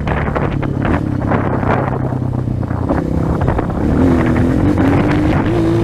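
230 cc trail motorcycle engine running under load on slippery mud, its pitch rising and wavering from about four seconds in as the throttle is worked. Wind rushes on the microphone.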